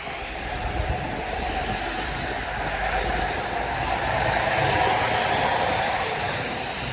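A vehicle passing on a city street, its noise building over several seconds, loudest about five seconds in, then easing off.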